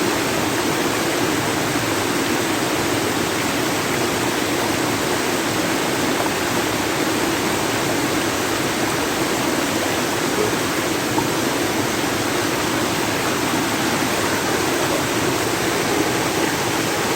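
Steady, loud rush of water, an even hiss with no separate drops or breaks.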